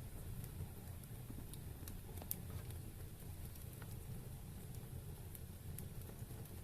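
Wood fire burning in a fireplace: scattered small crackles and pops over a low steady rumble, with one sharper pop about two seconds in.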